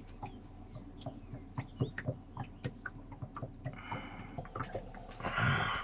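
Birds calling faintly over a run of small irregular clicks and knocks, with a louder rush of noise near the end.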